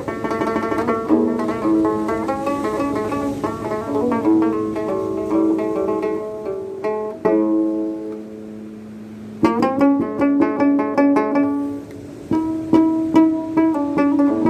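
Plucked string instrument playing a melody of quick single notes. About halfway through, a low note is left ringing and fades for about two seconds, then fast plucking resumes.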